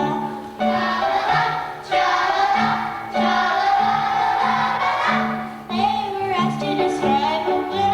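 A song with a group of voices singing over a rhythmic accompaniment of short, repeated bass notes.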